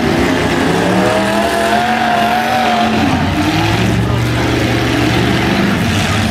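Destruction derby cars' engines running together, loud and continuous, one of them revving up over a couple of seconds and dropping back about halfway through, with a second shorter rev after it.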